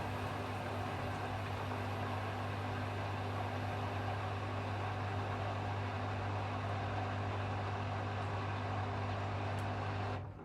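Hoover HW411AMC washing machine spinning at 1400 rpm in its final spin: a steady low hum over an even rushing noise. It cuts off suddenly near the end, leaving only a faint sound.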